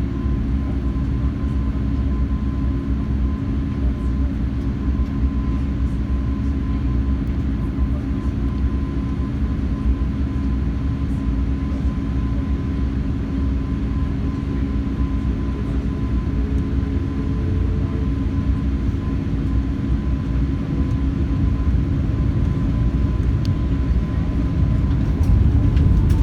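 Steady engine and airflow noise of an Airbus A380 with Rolls-Royce Trent 900 engines, heard from inside the cabin: a low rumble with a faint steady tone over it, growing a little louder near the end.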